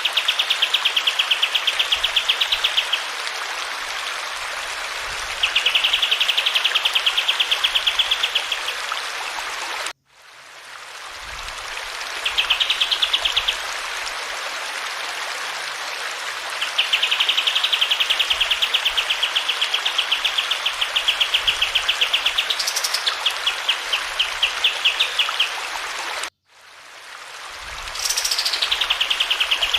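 Kapas tembak songbird singing long, fast trills of rapidly repeated high notes, several seconds each, over the steady hiss of running water. The sound cuts out abruptly twice and fades back in, at the joins of a looped recording.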